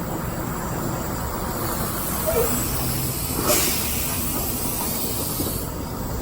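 Semi truck's engine running low and steady, with a loud hiss of air starting about halfway through and lasting about two seconds.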